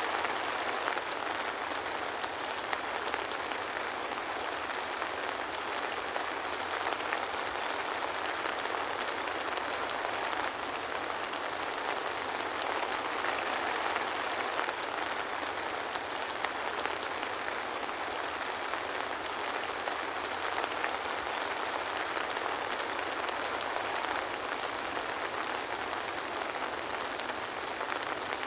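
Soft, steady rain, a dense even patter of drops with no thunder.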